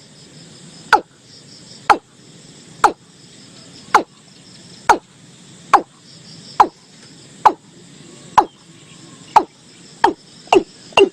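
Watercock calling: a series of sharp notes falling in pitch, about one a second, which speeds up near the end. A steady chorus of crickets runs underneath.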